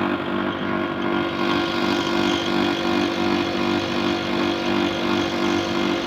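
Window air conditioner running with its compressor and fan on, a steady hum with one strong low tone; the unit, freshly charged with R22 refrigerant, is already cooling.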